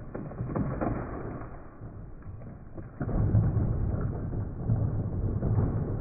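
Slowed-down, deep rumbling with scattered knocks from an old carport being pushed over. It grows louder about halfway through.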